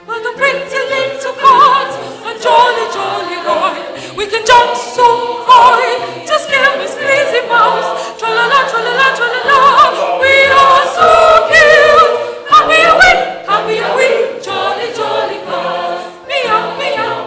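Mixed choir singing a comic cat chorus in operatic style, with several voices on quick, bending phrases, over steady low accompaniment notes.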